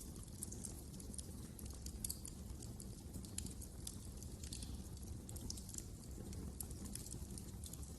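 Wood fire crackling: frequent irregular sharp pops and snaps over a low, steady rumble of the flames.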